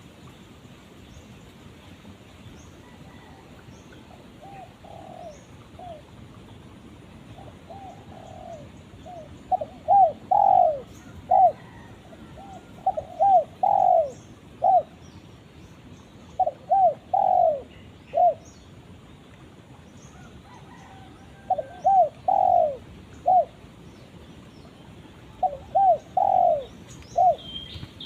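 Spotted dove (tekukur) cooing, a bird calling to a companion. It gives phrases of several short coos, repeated every few seconds, about five phrases in all, with a faint first one. Faint high chirps of small birds run in the background.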